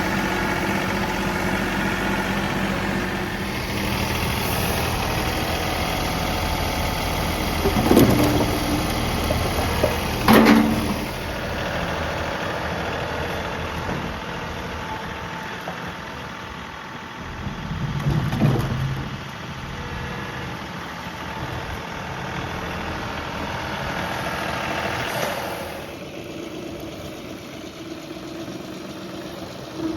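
John Deere 3038E compact tractor's three-cylinder diesel engine running steadily, with three loud clunks about a third and halfway through, and the engine sound falling back twice later on.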